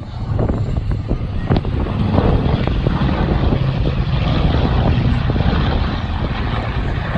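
Aircraft flying past: its engine noise swells about two seconds in and eases toward the end, over wind rumble on the microphone.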